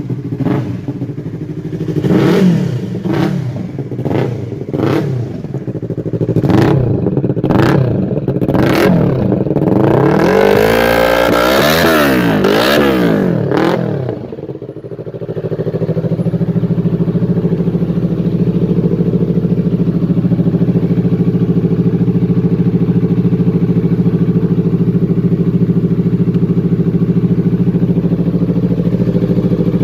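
Yamaha R25's parallel-twin engine blipped through a run of quick, sharp revs about once a second, then held high for a few seconds with its pitch wavering. It drops back about fourteen seconds in and settles to a steady idle.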